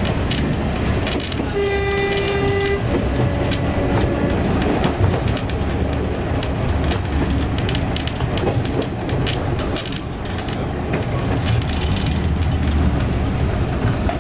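Train running along the line, its wheels clicking over the rail joints against a steady rumble. A short horn note sounds about two seconds in.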